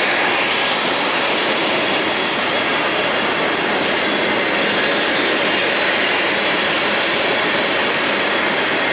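BNSF freight train passing, its steel wheels running on the rails in a loud, steady noise.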